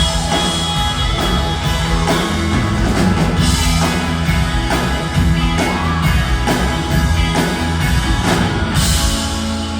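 Live rock band playing: guitars over a drum kit keeping a steady beat, with cymbal crashes.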